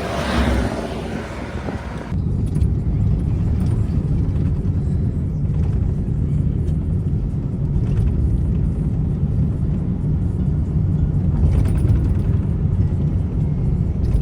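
Soft ice cream truck driving past, its jingle trailing off in the first two seconds. Then a loud, steady low rumble takes over.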